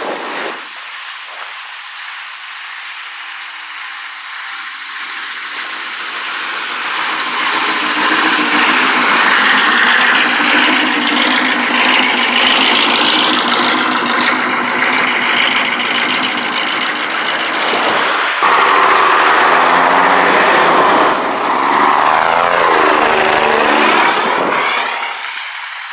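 Vintage Scania trucks driving past one after another, diesel engines running loud as each approaches and goes by. The sound changes abruptly about two-thirds of the way in as the next truck passes, then fades near the end.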